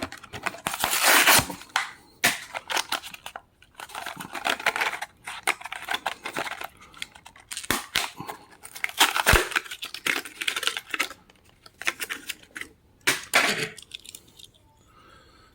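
A die-cast toy car's cardboard-and-plastic blister card being torn and crinkled open by hand, in irregular bursts of ripping and rustling.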